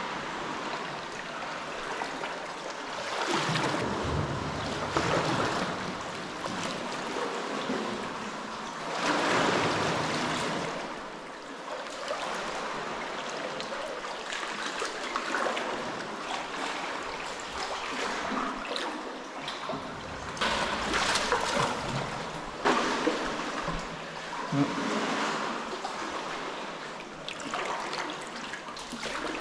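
Sea water washing and splashing around a sea kayak, rising and falling in surges every few seconds, with a couple of sharp knocks in the last third.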